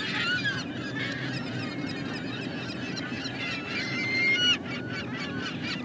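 A large flock of gulls calling, with many short cries overlapping. One longer drawn-out call stands out about four seconds in.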